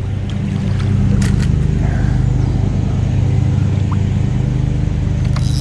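Steady low motor hum, like an engine running, with a couple of faint clicks.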